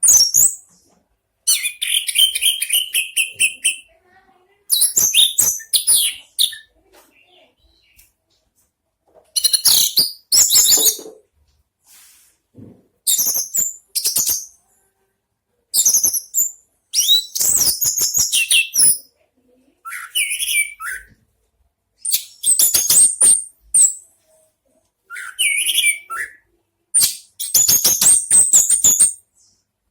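Orange-headed thrush (anis merah) singing: about ten short, varied high-pitched phrases of a second or two each, packed with rapid clicking notes and separated by brief silent pauses.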